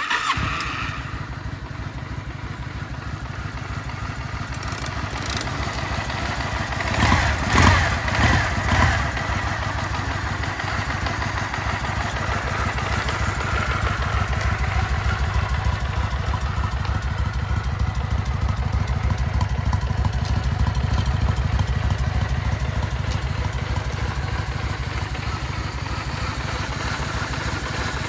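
Kawasaki W650 air-cooled parallel-twin engine starting from cold: it catches right at the start and settles into a steady, evenly pulsing idle, with three short louder bursts about seven to nine seconds in.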